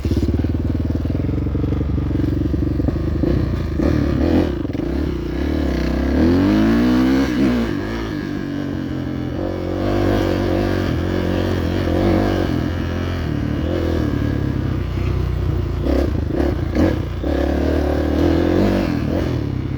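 Dirt bike engine running under a rider, revving up and down, with a rising rev about six seconds in and a few short knocks near the end.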